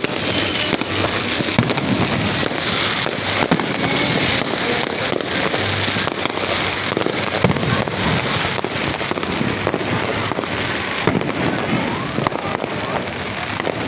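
Fireworks display going off: a dense, continuous crackle of many small pops and bangs.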